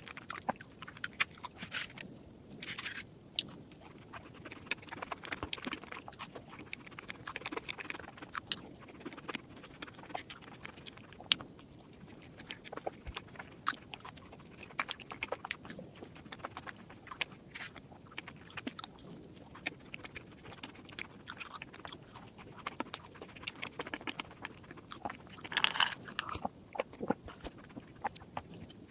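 Close-miked eating sounds: a person biting and chewing dessert food in a quick, irregular stream of crunchy clicks and soft wet smacks, with a louder burst of crunching near the end.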